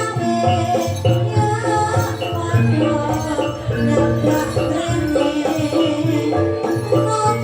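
Live jaranan ensemble music: a continuous pitched melody over drums and jingling rattle-type percussion.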